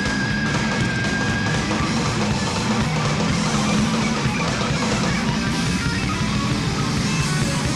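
Instrumental break of a rock song: distorted electric guitars over a drum kit, with a held high guitar note that fades away about a second and a half in.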